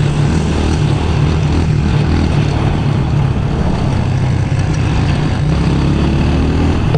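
Pit bike engine running steadily while being ridden, with a slight rise in pitch in the last couple of seconds.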